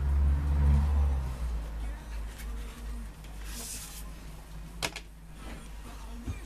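Handling noise while a parcel is unpacked: a strong low rumble in the first second or so, a short rustle of packaging a little past the middle, and one sharp click about five seconds in.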